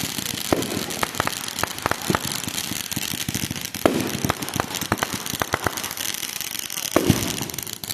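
Fireworks and firecrackers going off: irregular sharp pops and cracks, with a louder bang near the middle and another near the end, over a steady hiss of background noise.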